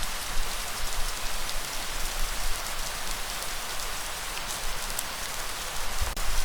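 Steady rain falling, a dense hiss with the patter of individual drops and a single sharp drip-like tick near the end.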